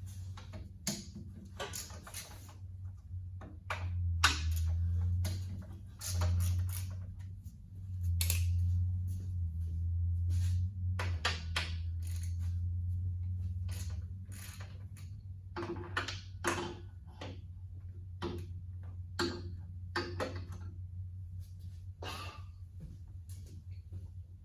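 Hand ratchet working the water-pump bolts on a tractor engine: irregular metallic clicks and knocks of the ratchet and tools on metal. A steady low hum runs underneath, louder for several seconds in the middle.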